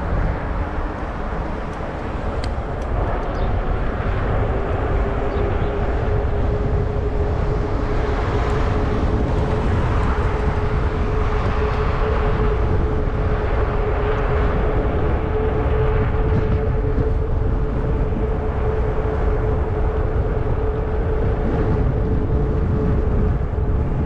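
Wind buffeting the microphone of a Zota Zephyr fat-tyre e-bike as it is ridden along. A steady hum from the moving bike comes in a few seconds in and holds.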